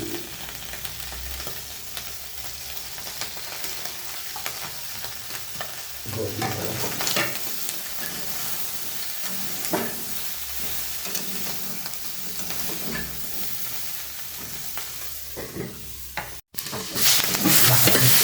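Chicken and onion frying in a hot pan, sizzling steadily as they are stirred, with a spoon scraping and knocking against the pan now and then. After a brief break near the end, the sizzling is louder.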